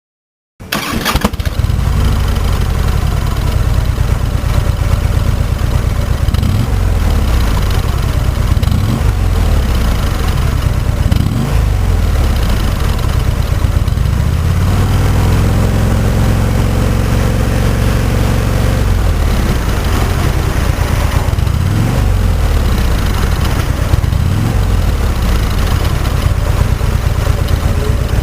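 Harley-Davidson Ultra's V-twin engine starting about half a second in, then idling through its muffler, with several brief revs that rise and fall, the longest near the middle.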